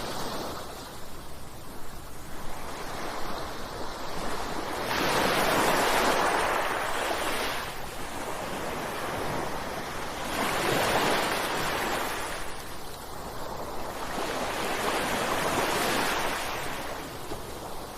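Ocean waves crashing, three big surges about five seconds apart, each swelling up and then washing back.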